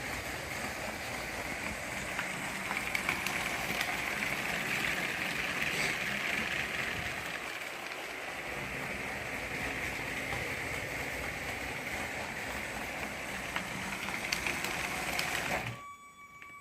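Lego Power Functions train motors driving a model locomotive along plastic track: a steady whirring rattle with a few sharp clicks, cutting off suddenly near the end.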